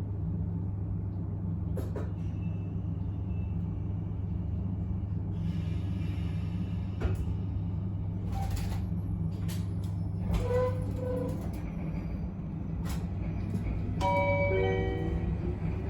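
Interior of an Abukuma Express 8100 series electric train: a steady low hum from the train's equipment with scattered clicks and knocks. Near the end come a short series of chime-like tones, then a whine that slowly rises in pitch.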